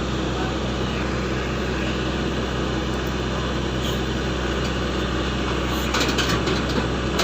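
SANY excavator's diesel engine running steadily, with a short burst of clatter about six seconds in.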